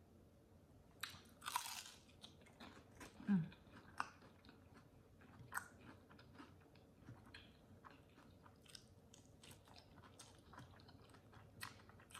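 A bite into crispy fried chicken with a crunch about a second and a half in, then close-miked chewing with many small clicks. A short low sound about three seconds in is the loudest moment.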